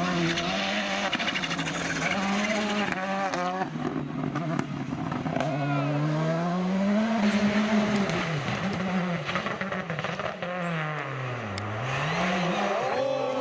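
Rally car engine revving hard, its pitch rising and falling again and again as the driver shifts and lifts, with a deep dip and climb near the end.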